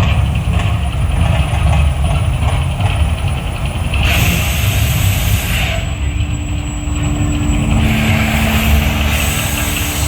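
Mirage hotel volcano attraction erupting: a continuous deep rumble with two bursts of loud hissing, about four seconds in and again about eight seconds in.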